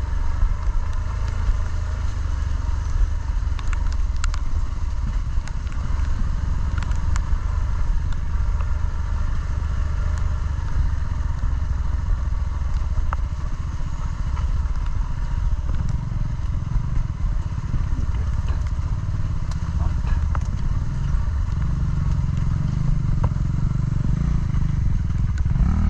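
Motorcycle engine running steadily on a dirt trail, with a continuous low rumble that grows heavier in the last ten seconds and scattered short clatters over it.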